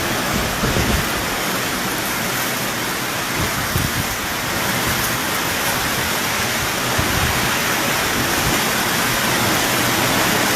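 Heavy storm rain pouring steadily, a dense even hiss, with a few brief low thumps of wind buffeting the microphone.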